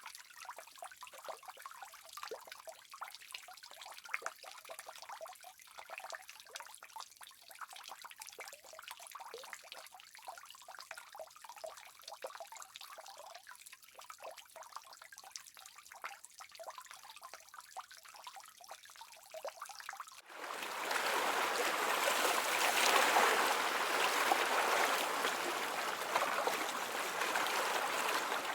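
Water trickling and dripping in small irregular splashes. About two-thirds of the way through it switches suddenly to a louder, steady rush of flowing water.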